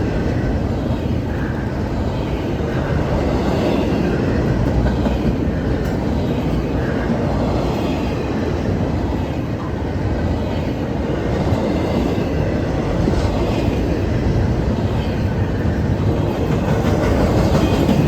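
Intermodal freight train rolling past, a steady loud rumble of wheels on rail with some clickety-clack.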